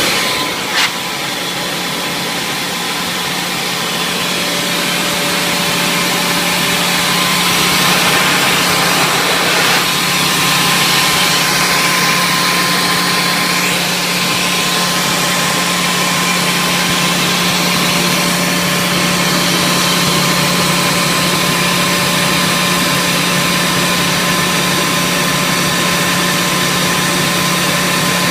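Quincy 25 HP rotary screw air compressor running steadily, with a constant hum under an airy hiss. There is a sharp click about a second in, and the sound grows a little louder over the first several seconds before holding steady.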